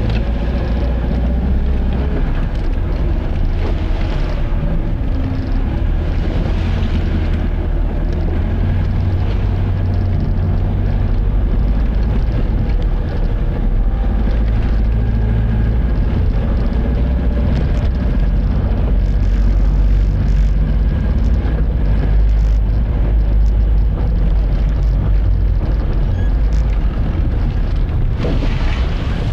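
Vehicle driving: a steady low engine and road rumble that holds evenly throughout.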